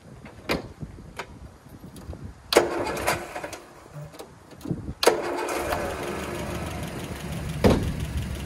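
Land Rover 2.25-litre four-cylinder petrol engine being started on the starter motor, with freshly reset valve clearances. A first short crank about two and a half seconds in dies away. A second crank about five seconds in catches, and the engine settles into a steady run.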